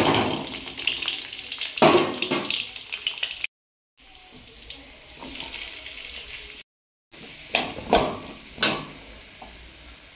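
Chopped onions and tomatoes tipped from a steel bowl into hot oil in a kadai, sizzling loudly, then a slotted steel ladle stirring them with sharp scrapes against the pan. The sound breaks off abruptly a few times where the footage is cut.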